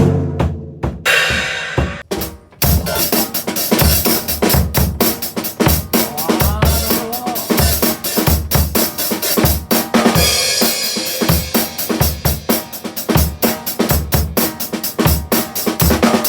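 Drum kit playing a fast punk-rock beat with bass drum, snare and cymbals. After a short drop about two seconds in, the full beat starts.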